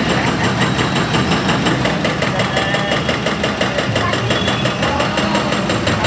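Heavy bulldozer's diesel engine running steadily and loudly, with a rapid, even pulsing beat.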